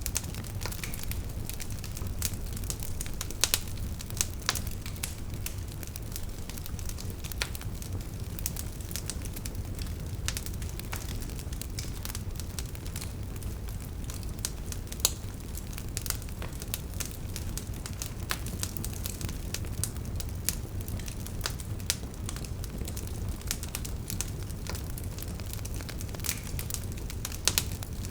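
Burning wood fire crackling: frequent irregular sharp pops and snaps of the logs over a steady low rumble of the flames.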